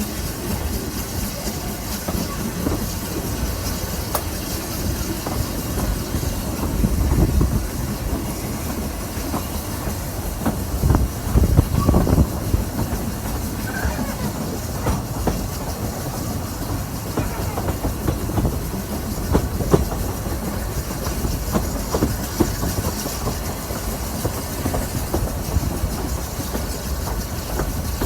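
A narrow-gauge train running on the Lynton and Barnstaple Railway, with a steady low rumble and scattered wheel clicks over the rail joints. Gusts of wind buffet the microphone and swell the rumble in places.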